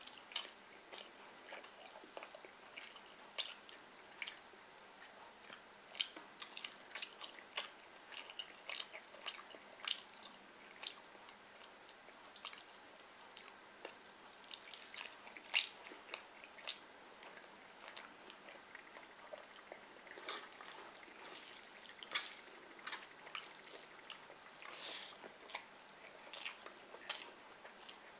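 Close-up wet chewing and lip-smacking of someone eating fried fish and rice by hand: an irregular run of small sticky clicks and smacks.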